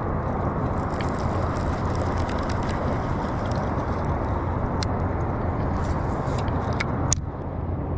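Steady low rumbling noise with a few faint clicks; the rumble drops off suddenly about seven seconds in.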